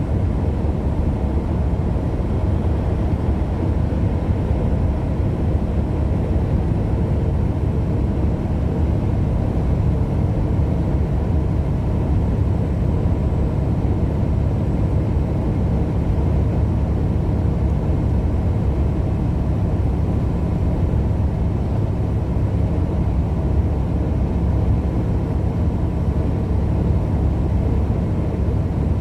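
Steady low rumble of engine and road noise inside a moving vehicle's cab, unchanging throughout.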